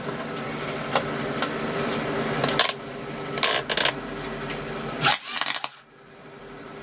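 MIG welding arc crackling and sizzling, with irregular sharp pops. It ends in a louder burst about five seconds in that cuts off suddenly as the arc stops.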